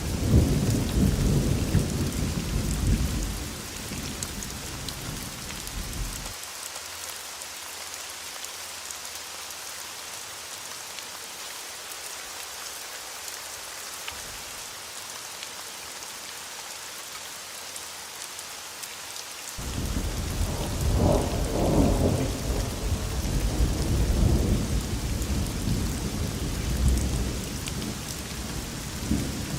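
Thunderstorm: steady heavy rain hissing throughout. A deep roll of thunder rumbles over the first several seconds and dies away, and a second, longer roll of thunder starts about two-thirds of the way in and keeps rumbling.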